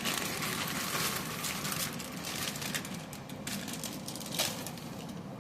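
Pan of water with egg noodles at a rolling boil, bubbling and crackling with irregular pops, one sharper pop about four seconds in.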